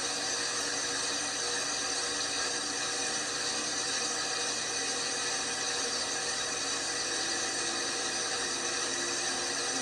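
LG washing machine running: a steady, even whir with several constant motor tones through it.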